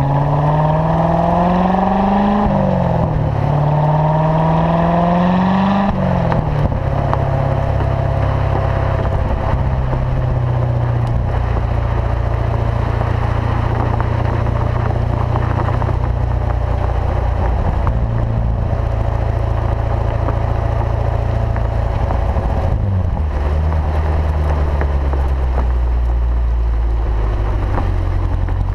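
2014 Corvette Stingray's 6.2-litre V8 through its performance exhaust, rising in pitch under acceleration. The pitch dips at a gear change about two and a half seconds in, climbs again, and drops near six seconds in. It then settles into a steady low drone while cruising, with another brief dip and recovery around twenty-three seconds in.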